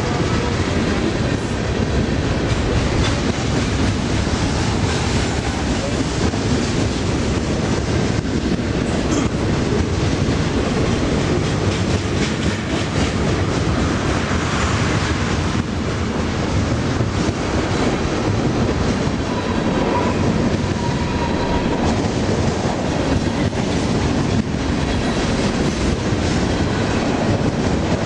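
Freight train of covered hoppers and tank cars rolling past at close range: a steady, loud rumble of wheels on the rails. A faint high tone joins in briefly about two-thirds of the way through.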